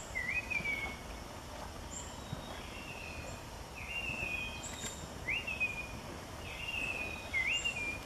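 Bird calling: a short whistled note, rising then held level, repeated about once a second, with a few faint high chips between, over a steady outdoor background hiss.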